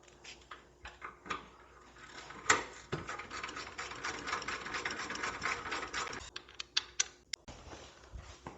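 Hand-tool work: a few separate clicks and knocks, then a rapid, continuous run of mechanical clicking for about four seconds, then more single clicks.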